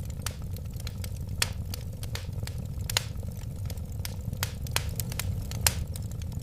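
Wood fire crackling, with sharp irregular pops over a steady low rumble of flames. The loudest pops come about one and a half, three, four and three quarters, and five and a half seconds in.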